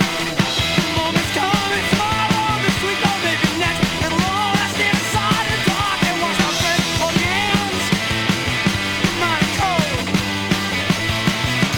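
Rock song played by a band: a steady, driving drum beat under bass and guitar, with a melodic lead line that bends and wavers in pitch.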